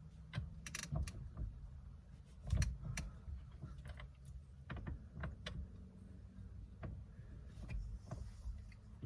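Irregular clicks, clinks and knocks of hand tools being handled, a wrench and socket being fitted to the steering wheel's centre bolt, over a faint steady low hum.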